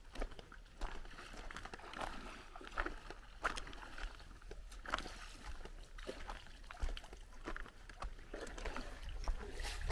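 Irregular footsteps crunching on a beach, over a light wash of sea noise.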